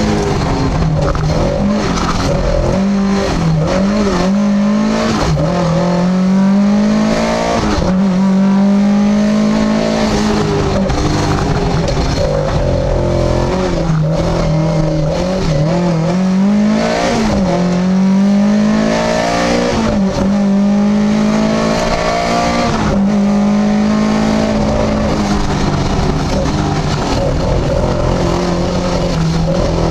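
Lada VFTS rally car's four-cylinder engine heard from inside the cabin, revving hard and climbing in pitch again and again, with a sharp drop at each gear change or lift for a corner.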